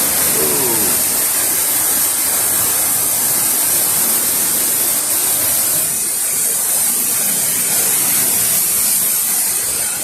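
Hurricane-force wind blowing steadily and loud, a continuous rushing hiss with a ragged low rumble of gusts buffeting the microphone.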